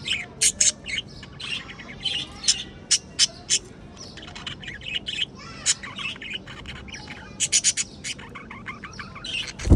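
A colony of budgerigars chattering, with many short, sharp chirps and squawks overlapping, and a loud thump near the end.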